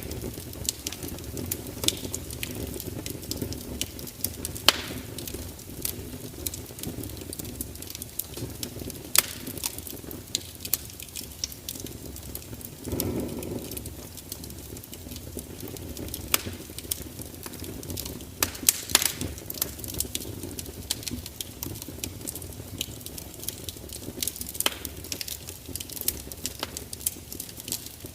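Fire crackling: frequent sharp pops and snaps over a steady low rush of burning, with a brief louder swell about thirteen seconds in.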